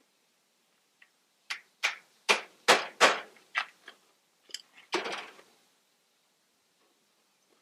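About ten sharp knocks at an uneven pace over some four seconds, loudest in the middle, each with a brief ring.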